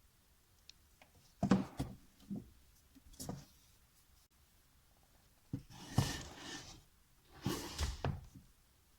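Household handling sounds: several short bursts of soft knocks and rustling as things are moved and set down, quiet in between.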